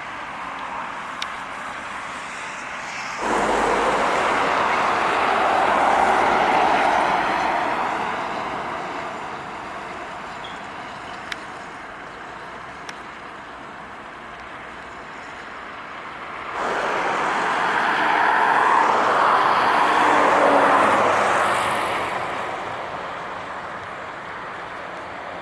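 Two heavy trucks pass by on a highway, one after the other, with engine and tyre noise. Each comes in suddenly, swells to a peak and fades away over several seconds, over a steady background of traffic.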